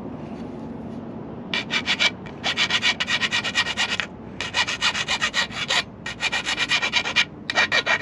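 Hand file rasping back and forth across the hacksaw-cut end of a metal strut bracket, deburring and smoothing it. Quick strokes, about five a second, come in several runs with short pauses between them, starting about a second and a half in.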